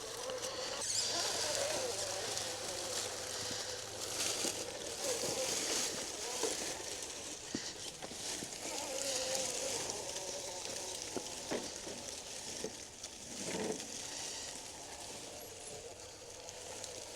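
Mini RC rock crawler's small electric motor and geartrain whining as it crawls, the pitch rising and falling with the throttle, with scattered clicks and knocks of the tyres and chassis over rock.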